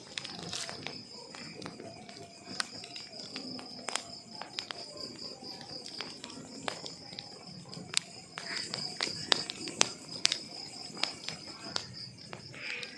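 Wood fire crackling, with irregular sharp pops over a low hiss, the pops coming thicker and louder after about eight seconds in. A cricket trills steadily and high in the background.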